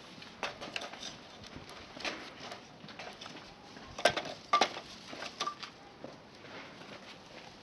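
Light clicks and taps of tableware being handled, with a few louder clinks, some of them ringing briefly, between about four and five and a half seconds in.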